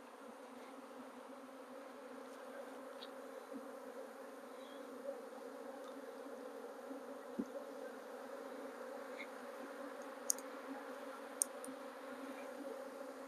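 Honeybees buzzing around an open hive during an inspection: a faint, steady hum with a low drone and its higher overtone, with a few faint clicks.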